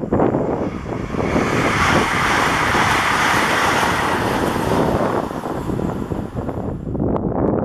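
Regional passenger train passing at speed: a loud rush of wheels on rail with a high hiss that falls away suddenly about seven seconds in, over a low rumble.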